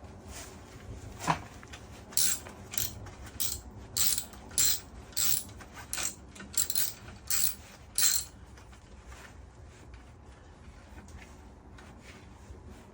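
Ratchet wrench with a 10 mm socket tightening a screw: a single click, then about ten short ratcheting bursts a little over half a second apart, one for each back-swing of the handle.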